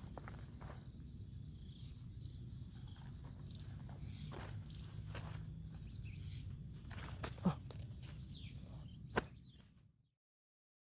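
Quiet outdoor ambience: a steady low rumble with a few sharp clicks and faint high chirps, cutting out to silence near the end.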